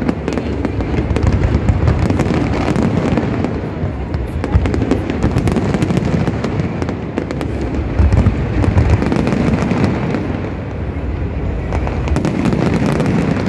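Fireworks display with many aerial shells bursting in quick succession, a near-continuous run of loud bangs.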